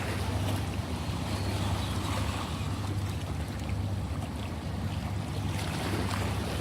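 Ocean surf washing steadily, with a constant low rumble under it and a few faint ticks of water.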